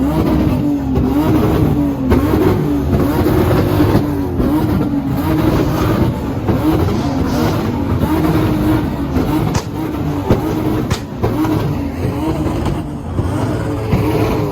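Ford Mustang engine held on a 2-step launch limiter, its revs bouncing up and down around one pitch, with two sharp exhaust cracks about two-thirds through. The car is tuned to 2-step and shoot flames.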